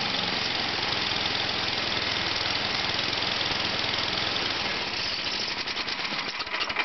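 Toro 824 XL snowblower's 8 hp Tecumseh single-cylinder engine running steadily, cold-started on the first pull after sitting about ten months. Near the end it slows, its separate firing strokes becoming audible as it winds down.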